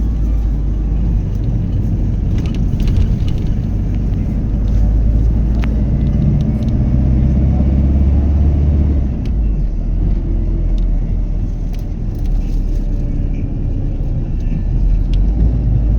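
Loud steady low rumble, with a few faint scattered clicks.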